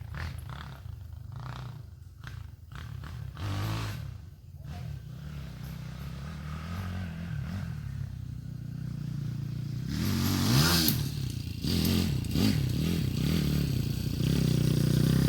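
Pit bike engine running at low revs, then revved up and down repeatedly and growing louder from about two-thirds of the way in.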